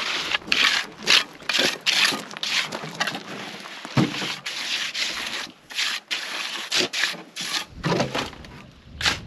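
Rhythmic scraping strokes, about two a second, growing irregular near the end with one sharp loud stroke.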